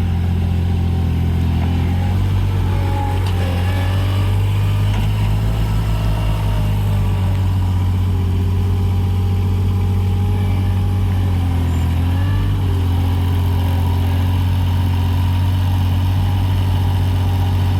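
Engine of an Avant 423 compact loader running steadily as it works, its pitch dipping briefly about two-thirds of the way through.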